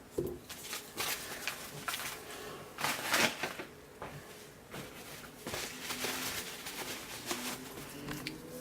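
A utensil scraping and knocking against a pot as lard is scooped into it, in irregular strokes, the busiest around the middle.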